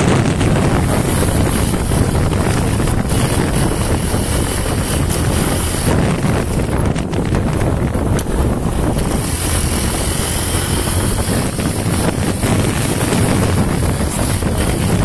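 Honda TMX 125's single-cylinder engine running steadily at speed in fifth gear, heard under heavy wind rush on the microphone.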